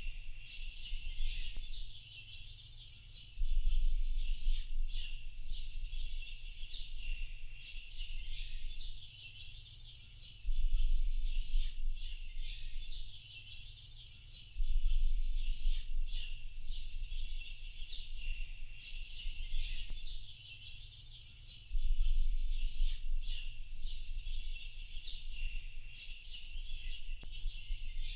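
A dense chorus of many small birds chirping and twittering without pause. A deep low rumble comes in abruptly four times and lasts a few seconds each time, and it is louder than the birds.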